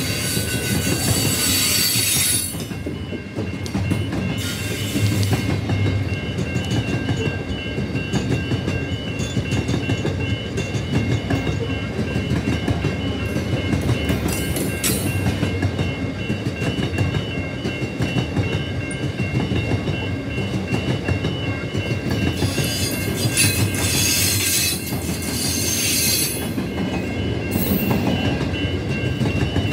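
Long freight train of covered grain hopper wagons rolling past, wheels clattering steadily over the rail joints, with bursts of high-pitched wheel squeal near the start and again in the last several seconds. A level crossing bell rings steadily over it.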